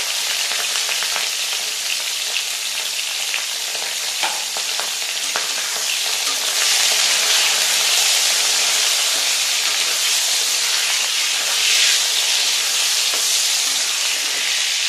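Eggplant pieces, just added to hot oil, sizzling as they fry in a steel kadhai, with a spatula stirring them now and then. The sizzle grows louder about halfway through.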